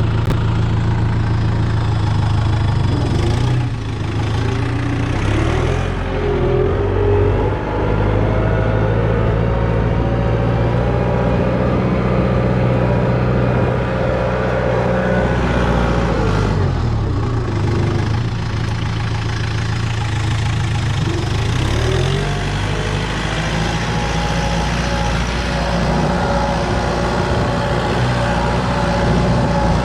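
Kubota M6040 tractor's four-cylinder diesel engine running steadily. Its note sags and picks back up a few times.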